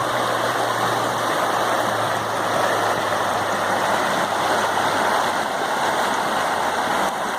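River water rushing steadily as it flows out from under a sheet of ice, with a low steady hum underneath that fades out about halfway through.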